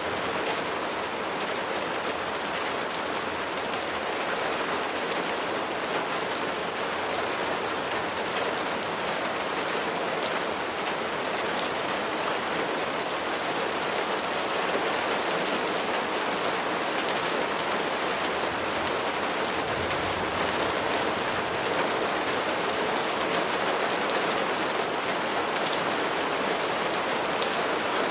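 Steady rain falling, a dense even patter of raindrops hitting a surface.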